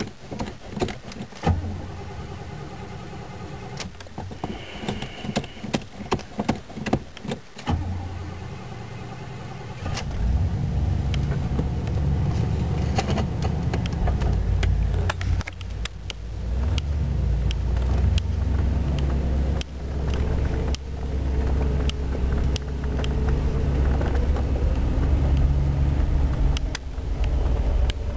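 An older car's engine heard from inside the cabin: a steady low idle sets in about a second and a half in, then from about ten seconds in it runs louder, the revs rising and falling as the car drives off. Light clicks and rattles come throughout.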